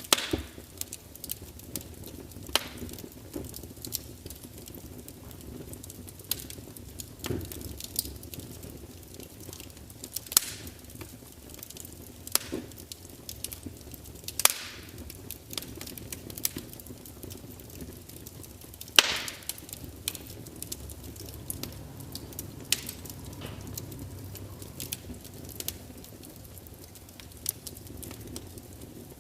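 Wood fire crackling in a large fireplace: a low steady rumble of flames with irregular sharp pops and snaps from the burning logs, the loudest about nineteen seconds in.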